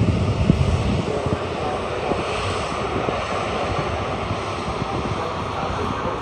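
Jet airliner's engines at takeoff power: a loud, steady noise heaviest in the low end, with an irregular low crackle.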